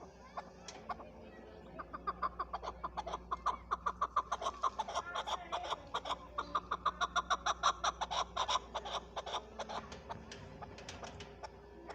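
Chukar partridge calling: a rapid run of short clucking chuck notes, about five a second, that builds up, holds loud through the middle and tails off near the end.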